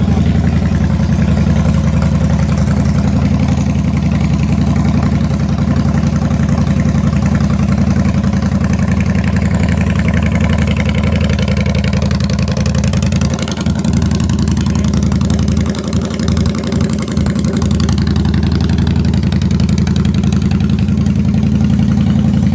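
Yamaha motorcycle engine idling steadily, with a few brief dips in its low note a little past the middle.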